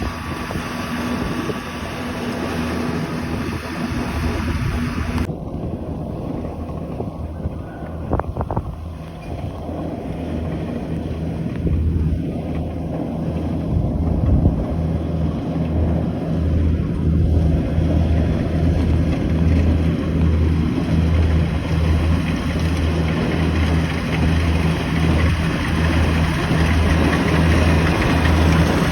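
Engine of a rice combine harvester running steadily, with a low throb that pulses about once a second and grows louder through the second half.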